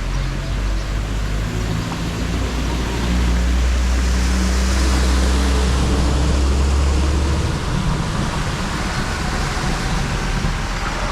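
A motor vehicle's engine running with a low hum, swelling in the middle and dropping away about seven and a half seconds in, over a constant hiss of rushing water.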